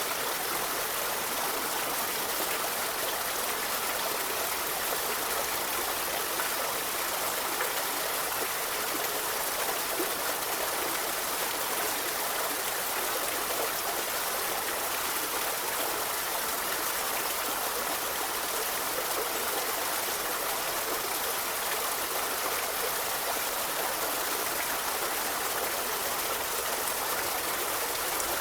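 A river flowing steadily over rocks, an even rushing of water without breaks.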